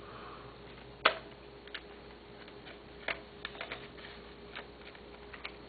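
Plastic caps and parts of a Nikon D40 camera and its 18–55mm kit lens being handled as the camera is assembled: a sharp click about a second in, another about three seconds in, then a run of lighter ticks.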